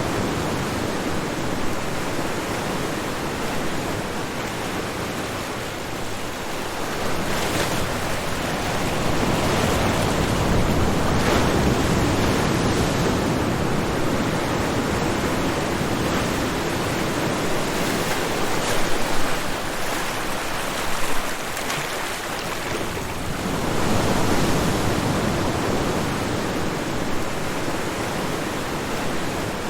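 Ocean waves breaking and washing up a shoreline: a continuous rushing surf that swells and eases as each wave comes in.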